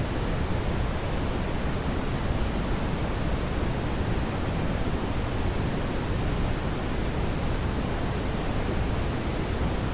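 Steady brown noise: an even, deep rushing hiss, strongest in the low end, with no change.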